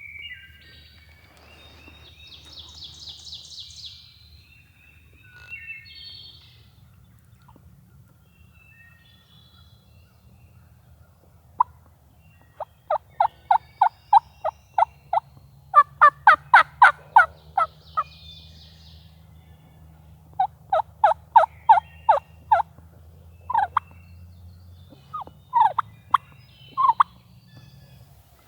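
Wild turkey yelps: several runs of short, sharp notes at about four a second, starting about twelve seconds in, followed by a few single notes near the end.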